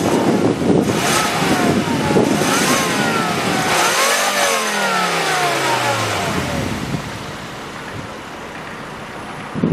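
2006 Volvo XC90's turbocharged engine free-revved in about three blips, its pitch rising and falling, the last rev the highest, then dropping back to a quieter idle about seven seconds in.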